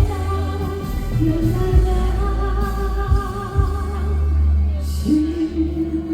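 Live song: a woman singing long held notes over band accompaniment with a heavy bass, in the style of a Mandarin folk-pop ballad.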